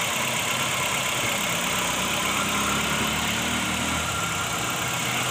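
Toyota Corolla's four-cylinder petrol engine idling steadily with the bonnet open. It is running again now that the shorted ignition-circuit wire has been repaired.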